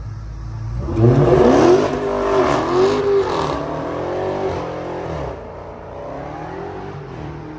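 Car engine idling, then revved up and down several times between about one and five seconds in before settling back toward idle.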